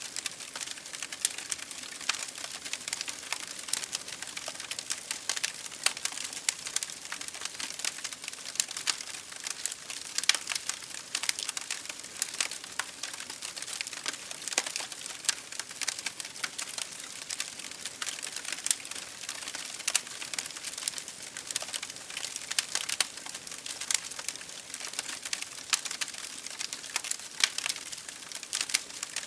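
Wood fire in an open fireplace crackling: dense, irregular sharp pops and snaps over a soft steady hiss.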